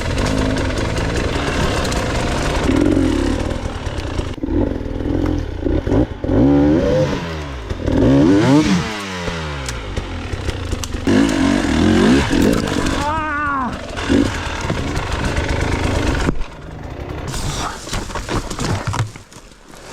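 Off-road enduro motorcycle engines revving hard, the pitch climbing and dropping again and again as the throttle is worked. In the middle, more than one engine is heard at once, their pitches crossing. The engines die down near the end.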